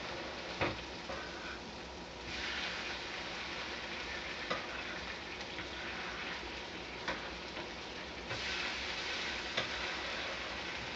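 Food sizzling on a hot grill or griddle, a steady hiss that swells louder about two seconds in and again near the end, with a few sharp clicks.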